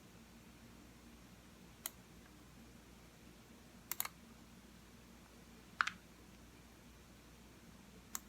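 Computer mouse button clicks, few and far between: a single click about two seconds in, a quick double click about four seconds in, another click near six seconds and one more at the end, over a faint steady room hum.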